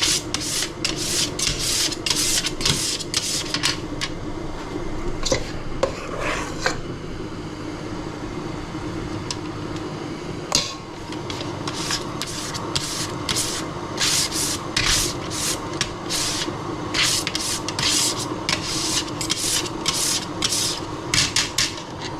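A spaetzle-style nokedli maker scraping back and forth as egg-and-flour batter is pushed through its holes into boiling water, in quick rasping strokes about two a second. The strokes pause for several seconds, then start again.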